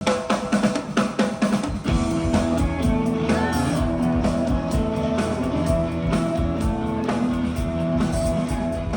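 Live rock band playing: electric guitar strums in short sharp strokes for about two seconds, then the band settles into held guitar notes over bass and drums.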